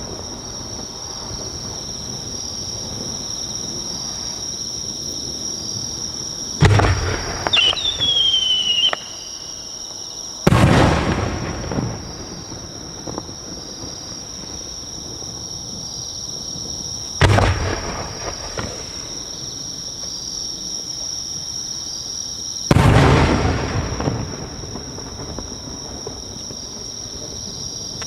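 No. 5 aerial firework shells bursting: four booms with long rolling echoes, about 6.5, 10.5, 17 and 23 seconds in, with a falling whistle after the first. Crickets chirp steadily throughout.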